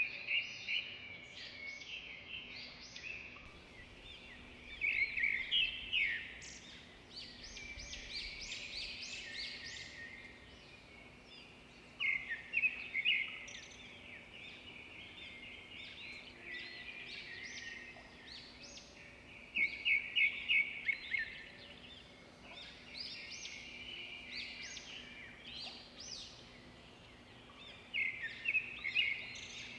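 Wild birds chirping and singing, with short high calls and quick rapid-note trills coming in clusters every few seconds over a faint outdoor background.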